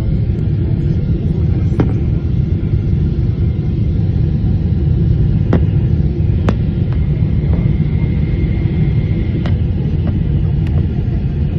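Steady low rumble of engine and airflow noise inside a Boeing 777-300ER's cabin on descent, from its GE90 engines, with a few light clicks.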